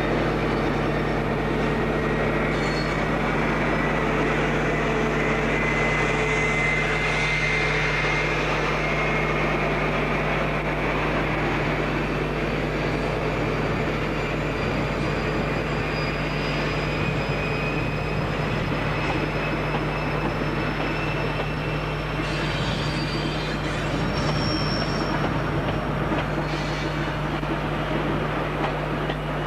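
A train moving through the station: steady running noise with long, high wheel squeals whose pitch drifts slowly upward.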